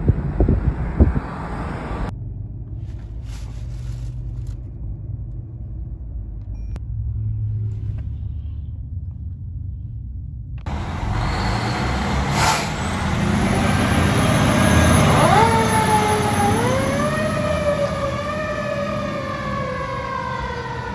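Fire truck engine rumble across several clips, with a sharp knock near the middle. Partway through, a fire truck siren starts up: it swoops quickly up and slowly down twice, then holds and slowly falls.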